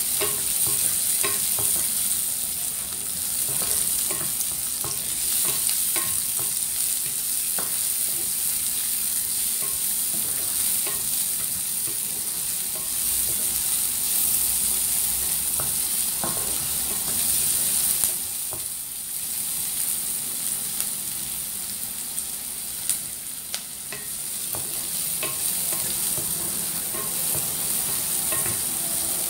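Diced garlic and red onion sizzling in hot oil in a nonstick pan, a steady hiss, as they are stirred with a wooden spatula that taps and scrapes lightly against the pan.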